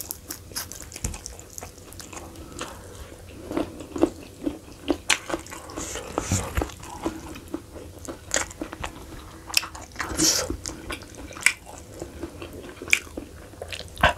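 Close-up eating sounds of a man chewing sheep's-head meat pulled off the bone by hand: wet chewing with many sharp, irregular mouth clicks and occasional crunches.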